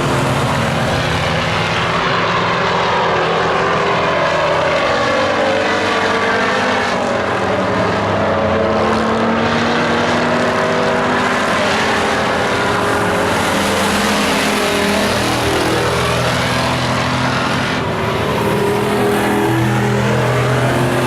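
Several stock racing pickup trucks' engines running together on an oval track, their pitch rising and falling as they accelerate and pass.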